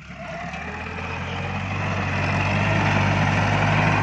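Iseki NT554 tractor's diesel engine running, rising in loudness over the first three seconds as it revs up while working the grab attachment.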